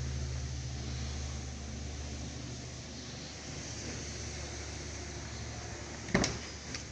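A car engine running with a steady low hum that fades after about three seconds, then a sharp knock about six seconds in and a smaller one just after.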